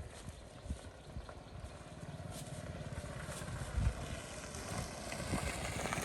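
Small motorbike engine running with an even low pulsing, growing louder as it comes closer, with a few knocks along the way.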